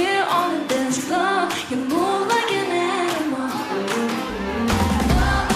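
Pop music with female group vocals sustaining a wavering, sung melody; heavy bass and drums come in a little after four seconds in.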